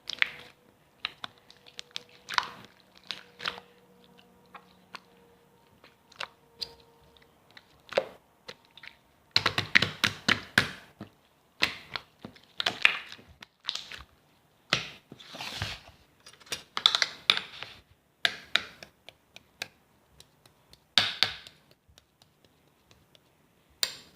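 Irregular clicks, taps and crackly rustles in short bursts at close range, coming thicker from about nine seconds in.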